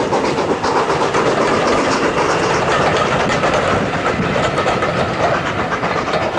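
Steam-hauled train rolling past close by, its wheels clattering steadily over the rail joints; the noise eases slightly near the end.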